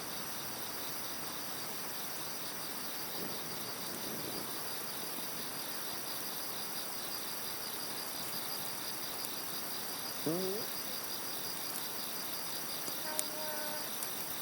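Crickets chirping in a steady, fast-pulsing chorus. A short gliding call sounds about ten seconds in, and a brief call with a single sharp click near the end.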